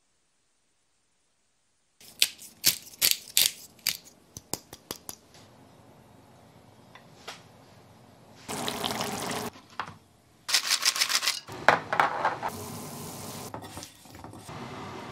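Kitchen sounds: a quick series of clinks and knocks of dishes or utensils, then water running from a tap in a few bursts.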